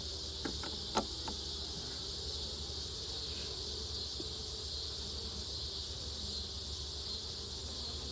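Steady high-pitched chirring of crickets, with a few short clicks about a second in.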